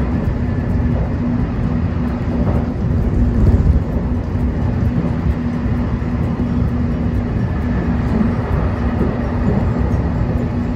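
Cabin noise of a JR Kyushu 813 series electric train running at speed: a steady low rumble of wheels on rails with a constant low hum underneath, swelling briefly louder about three and a half seconds in.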